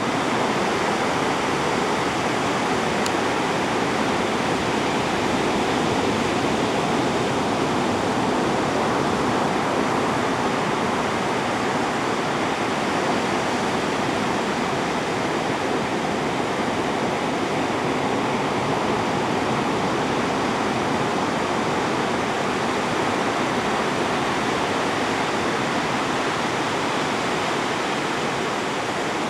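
Steady rush of ocean surf breaking on a beach, an even, unbroken wash of noise with no distinct wave crashes standing out.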